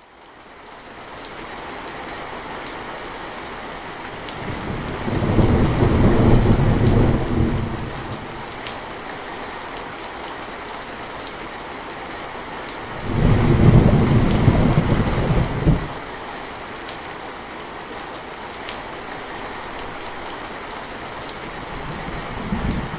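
Steady rain falling on forest foliage, fading in at the start, with two long low rolls of thunder, one about five seconds in and one about thirteen seconds in, and a short rumble near the end.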